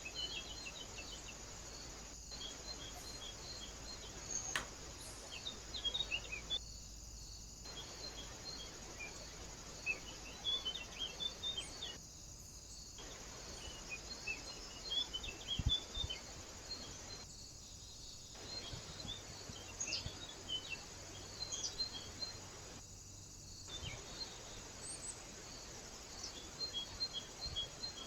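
Outdoor ambience at a bird feeder: steady, evenly pulsed insect chirping with scattered short bird chirps over it. The sound drops out briefly four times, about every five or six seconds.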